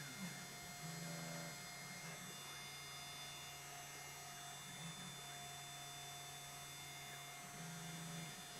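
3018 CNC router's stepper motors humming as the machine runs a G-code engraving job. The hum steps up and down in level, with short rising and falling pitch sweeps as the axes speed up and slow down: near the start, about halfway through and near the end. A steady higher tone runs under it.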